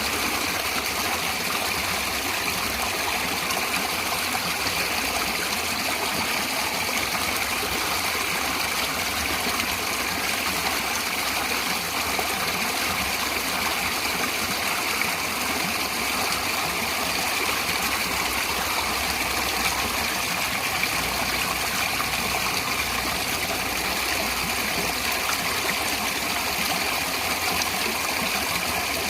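A stream of water running and splashing steadily over rocks.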